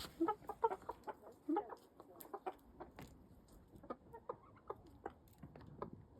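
Chickens clucking: a string of short clucks, louder and closer together in the first couple of seconds, then softer and more scattered.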